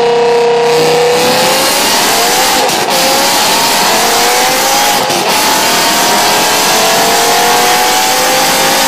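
BMW E60 M5's 5.0-litre V10 engine pulling hard on a chassis dynamometer. Its loud note rises steadily through the revs, drops back briefly at two upshifts about 3 and 5 seconds in, and climbs again after each.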